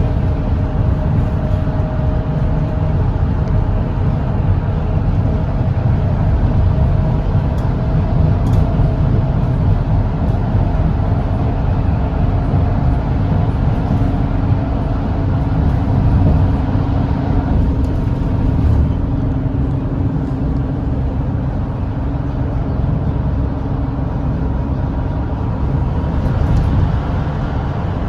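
Volvo B8RLE double-decker diesel bus running at expressway speed: a steady low engine drone with a couple of even tones above it, mixed with road noise.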